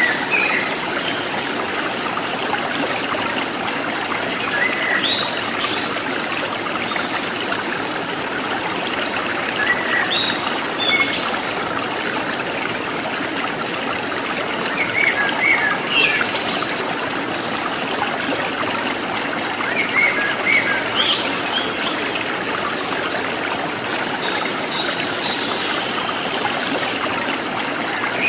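A forest stream trickling and babbling steadily, with a wild bird repeating a short chirping phrase about every five seconds.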